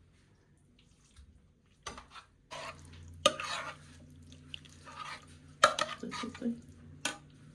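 Kitchen utensils clinking and scraping in a bowl or pot, as in stirring, in short irregular strokes that start about two and a half seconds in. Under them runs a low steady hum.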